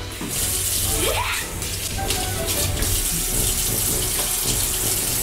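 Tap water running into a sink and splashing, a steady rush that starts just after the beginning.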